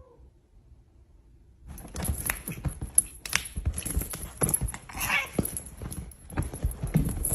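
A quick, irregular run of knocks and thumps on a hard surface, starting a little under two seconds in, as a cat scrambles and thrashes about.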